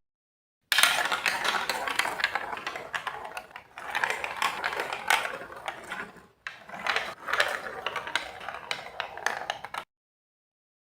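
Glass marbles rolling and clattering down a plastic Lego Duplo block track, a dense rattle of quick clicks that comes in three surges and then cuts off.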